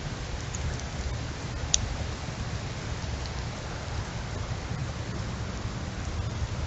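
Steady heavy rain in a windstorm, with a low, fluctuating rumble underneath and one sharp tap about two seconds in.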